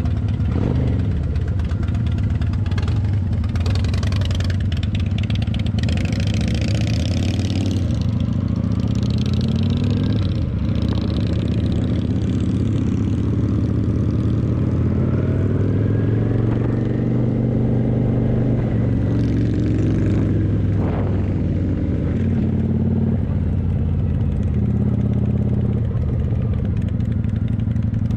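Kawasaki motorcycle engine running under way, its pitch rising and falling several times as the bike speeds up and slows.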